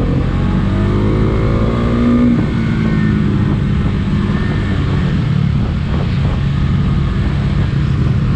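Motorcycle engine running while riding, loud and steady, its note climbing a little over the first two seconds and then settling.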